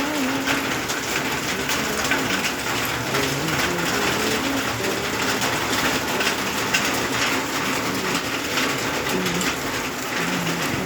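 Steady rainfall: an even hiss of rain with many individual drops ticking on surfaces, unchanging in strength. A faint wavering low tone runs underneath.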